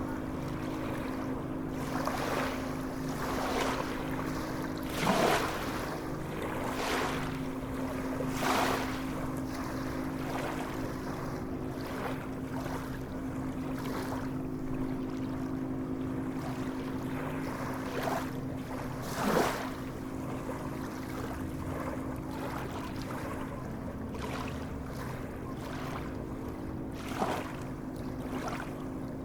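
Sea waves washing and splashing, with short surges about 5, 7, 8.5, 19 and 27 seconds in, the ones around 5 and 19 seconds the loudest. A steady low hum runs underneath.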